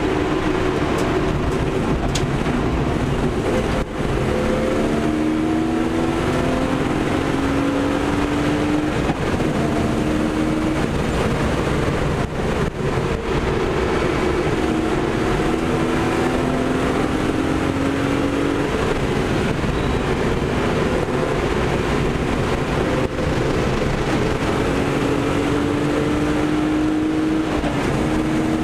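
BMW 325i's straight-six engine accelerating, its tone climbing slowly for a few seconds and then dropping back at each upshift, several times over, under a steady rush of wind and tyre noise heard from inside the cabin.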